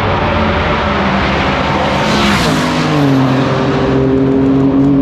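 Car engine running hard at a drag strip, with a rush of noise about two seconds in, after which its pitch drops to a lower, steady note.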